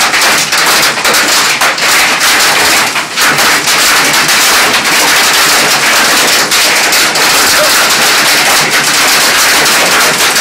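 Hail coming down hard: a loud, dense, continuous clatter of hailstones striking.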